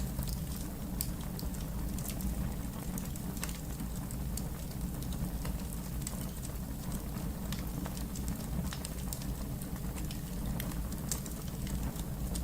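Wood fire burning with steady irregular crackles and small pops over a low rumble of the flames.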